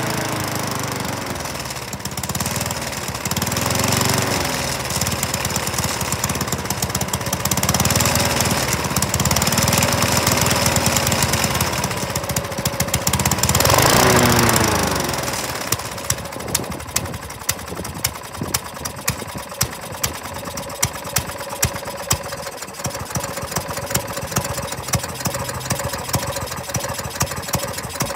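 2010 Toro Super Recycler 7 hp mower engine running on full choke and surging: its speed rises and falls over and over for about the first fifteen seconds, peaking about fourteen seconds in. It then drops to a quieter, steadier run with regular sharp ticks. The surging comes from a sticking governor air vane that is not springing back, so the throttle goes to full open.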